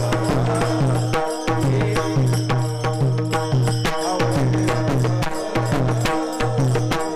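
Devotional kirtan accompaniment between sung lines: a hand drum beating with many quick cymbal strikes over a melody of sustained tones.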